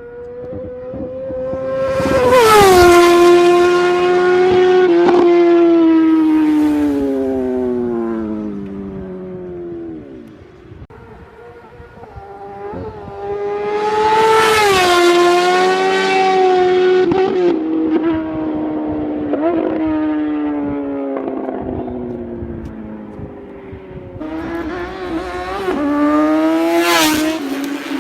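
High-revving sport motorcycles making three fast passes, about twelve seconds apart, each engine note swelling loud and then dropping in pitch as the bike goes by and moves off.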